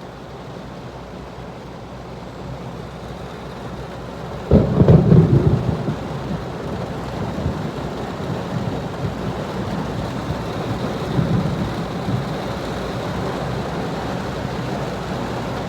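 Steady rain with a sudden rumble of thunder about four and a half seconds in that lasts a second or two, then the rain runs on.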